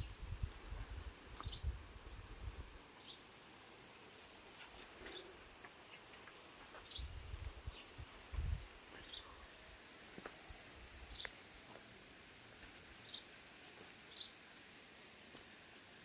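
A small bird calling over and over, high short notes about once a second, each a quick downward sweep or a brief even chirp. Low rumble on the microphone, like wind or handling, near the start and again a little past the middle.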